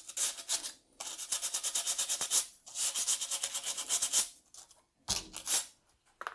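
Sandpaper rubbed in quick back-and-forth strokes over a rusty snowmobile exhaust muffler, taking off rust. The strokes pause briefly about a second in, then run steadily for about three seconds; a shorter scrape follows near the end.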